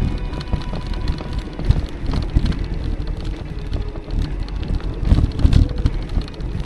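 Wind buffeting the microphone of a camera riding along on an electric mountain bike, with uneven low rumble that swells about five seconds in.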